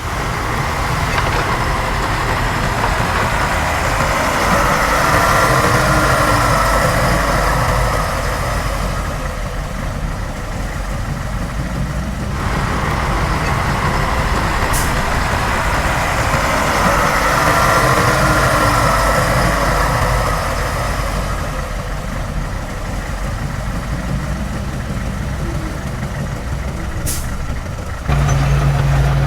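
Heavy earthmoving machine's diesel engine running continuously, its level swelling and easing as it works. The sound changes abruptly twice, about 12 seconds in and near the end, where a steadier low engine hum takes over.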